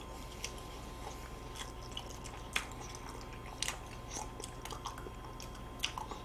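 Close-miked chewing and biting of chocolate-cookie ice cream sandwiches, with scattered short mouth clicks and smacks, the sharpest about two and a half seconds in.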